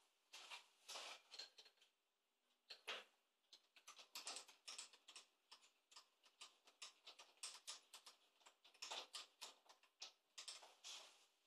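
Faint, irregular light clicks and taps, several a second through the middle stretch, with no machine running.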